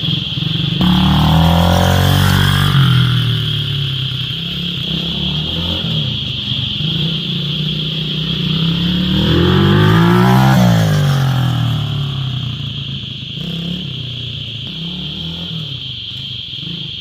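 A small engine revving up and down twice, about a second in and again about ten seconds in, otherwise running steadily, with a steady high-pitched hum throughout.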